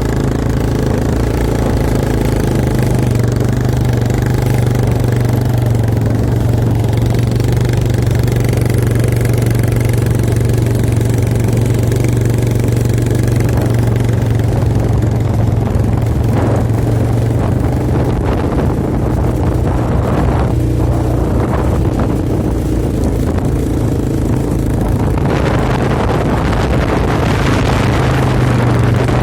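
Quad bike engine running at a steady pitch throughout, with a louder rushing noise over it near the end.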